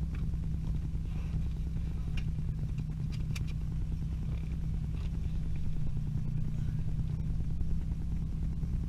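Vauxhall Z20LET 2.0-litre turbo four-cylinder engine idling steadily as a low hum, heard from inside the van's cabin, with a few faint clicks.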